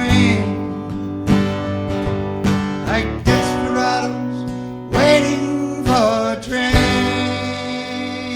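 Acoustic guitars playing the closing instrumental bars of a live country-folk song: strummed chords with wavering lead fills, ending on a last chord left to ring out.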